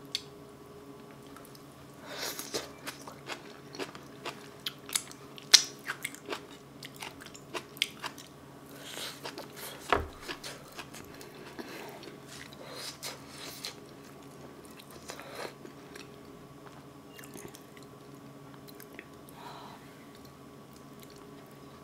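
Close-miked eating: a mouth chewing and crunching braised kimchi and boiled potato, with wet smacks and clicks. The chewing thins out in the last few seconds, and there is a soft thump about halfway through.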